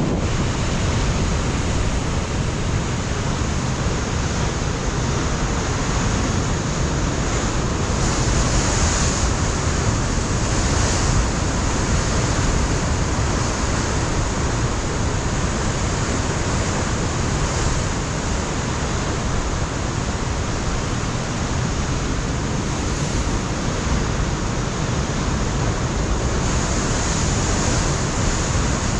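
Ocean surf breaking and washing against a rocky shore, a continuous rushing roar that swells and eases, with gusts of wind on the microphone.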